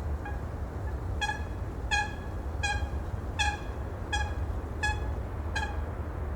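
A bird calling in a series of seven short, evenly spaced calls about 0.7 s apart, over a steady low rumble.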